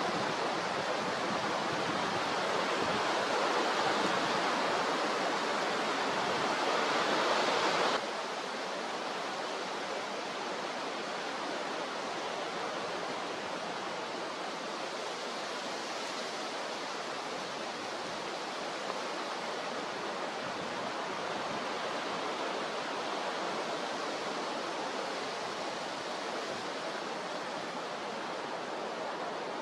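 Steady rushing noise of strong wind and rough sea. About eight seconds in it drops suddenly to a lower level and stays steady.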